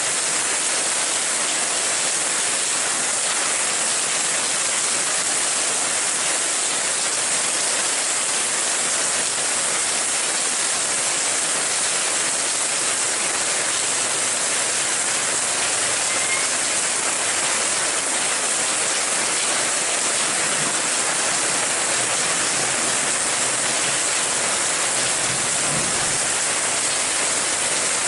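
Steady rain falling, a dense even hiss that holds at the same level throughout.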